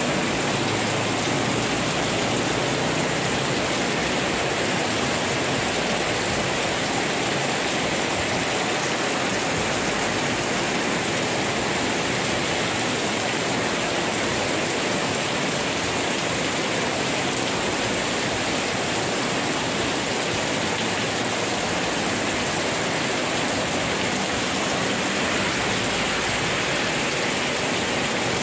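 Heavy rain falling steadily on a wet street and the shop awning overhead, an even, unbroken rush of water with no letup.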